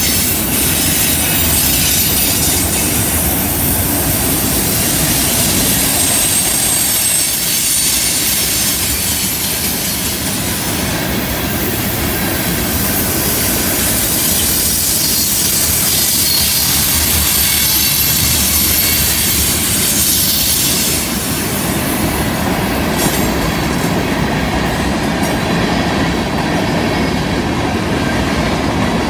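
Freight cars of a passing freight train rolling by close at hand: a steady rumble of steel wheels on the rails, with thin high wheel squeal from the train taking the curve.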